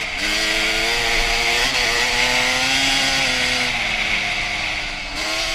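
2001 Honda CR250's single-cylinder two-stroke engine running hard on the trail, its pitch climbing at the start, dipping sharply about two seconds in, then holding, sagging and dipping again near the end.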